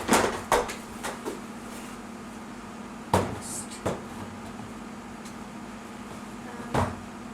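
Hard plastic shelf parts knocking and clacking as they are handled and fitted. There is a cluster of knocks at the start, then single knocks about three, four and seven seconds in, over a steady low hum.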